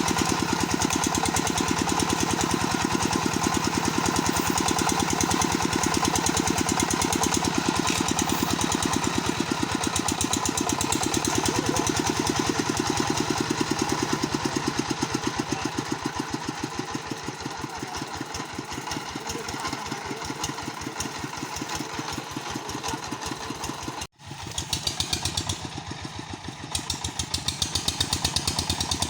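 Engine of a home-built mobile circular sawmill running steadily with a rapid, even knocking pulse. The sound breaks off for an instant near the end, then carries on.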